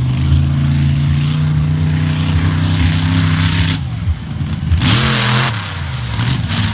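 Monster truck engine held at high revs, then easing off about four seconds in. Near five seconds it revs up and back down, with a short burst of loud hissing noise at the same moment.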